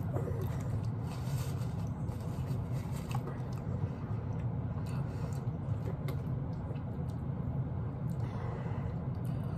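Close-up eating sounds: chewing of soft food and the clicks and scrapes of a spoon in a small bowl, over a steady low hum.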